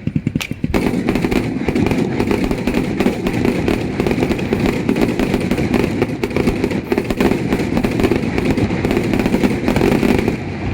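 Fireworks going off in a loud, dense barrage of rapid crackling bangs. It starts about a second in and keeps up steadily until it cuts off near the end.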